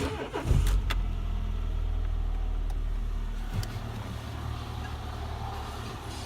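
Car engine starting about half a second in, then running at a steady idle.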